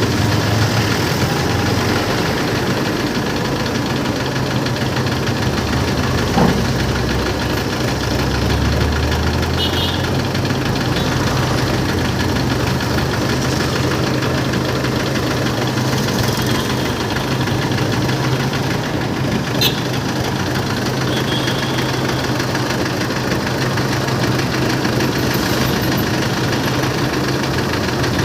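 A machine running steadily with a constant low hum, with a brief deeper rumble around eight seconds in and two sharp clicks, one about six seconds in and one near twenty seconds.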